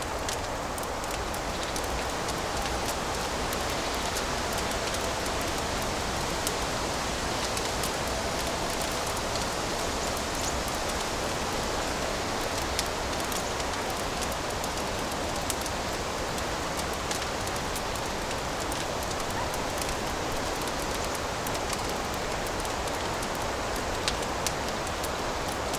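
Fireplace fire crackling: a steady hiss with scattered sharp pops and snaps throughout.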